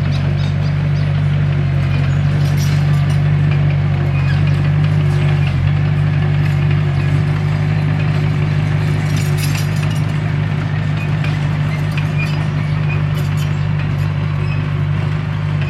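Komatsu D21P bulldozer's diesel engine running steadily, with scattered light metallic clinks.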